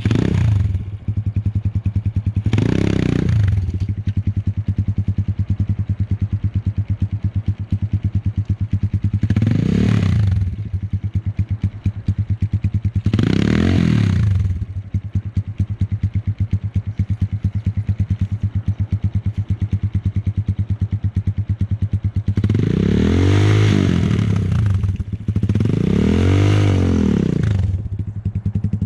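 Enduro motorcycle engine ticking over with an even pulse, blipped briefly three times. Near the end it is revved up and let fall back twice, more strongly.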